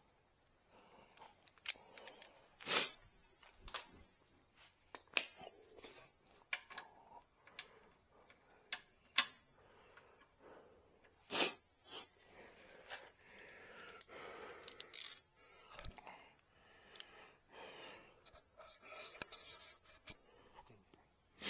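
Scattered sharp clicks and knocks from hand work, with soft scraping between them. The loudest knocks come about 3, 9 and 11 seconds in.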